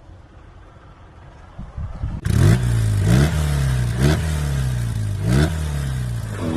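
BMW R90S air-cooled flat-twin engine. About two seconds in it comes in loud and is revved in four quick throttle blips, the pitch rising and falling each time, then settles toward a steady idle near the end.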